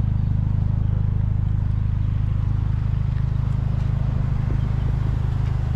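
Honda Civic Type R's K20 four-cylinder engine idling steadily through a new Injen stainless exhaust, a low even drone.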